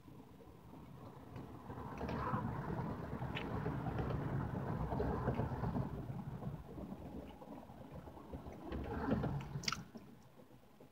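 Close-up chewing of a soft frosted pumpkin cupcake with the mouth closed, building up after about a second and easing off near the end. A single sharp click comes just before it dies down.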